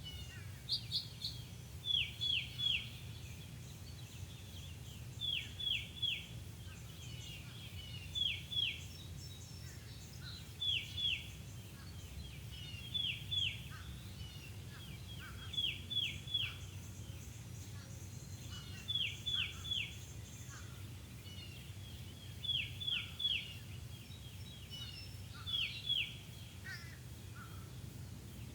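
A bird calling over and over in short bursts of two to four sharp, high notes, a group about every two to three seconds, over a steady low rumble.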